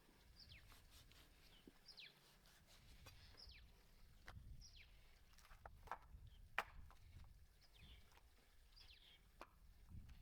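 Faint small-bird chirps, short calls sliding downward in pitch, repeated about once a second. A few sharp clicks come a little past the middle, over a low rumble.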